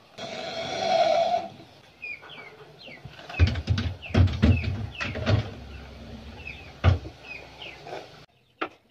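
A farm animal's call held for about a second and a half, then short falling bird chirps and a run of sharp knocks with heavy low thuds in the middle.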